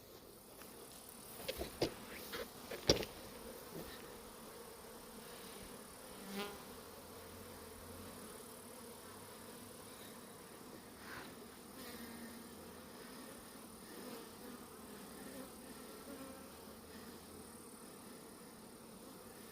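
Honeybees buzzing around the hive: a steady hum with single bees now and then flying close past. A few sharp knocks come in the first three seconds, the loudest at about three seconds in.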